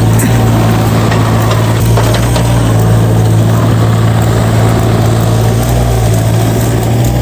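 A large engine idling steadily, with a deep constant hum.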